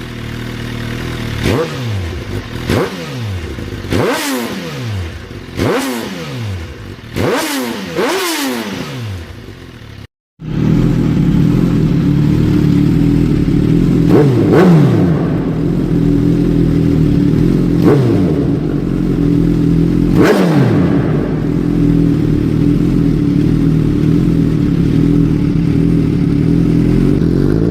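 Suzuki GSX-R1000 inline-four motorcycle engine through its exhaust, blipped in a quick run of revs that each fall straight back. After a sudden break about ten seconds in, it runs steadily and louder, with a few spaced blips.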